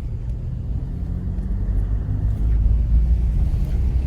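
Steady low rumble of a car on the move, growing a little louder near the end.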